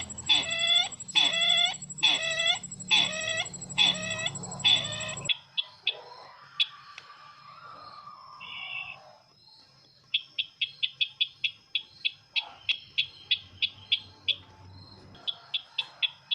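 Recorded sisintar ladang luring call played back: a call with several pitches repeating about every 0.6 s, over a low hum and a steady high whine, cuts off abruptly about five seconds in. After it come quieter sharp ticking chirps, in a rapid run from about ten seconds in.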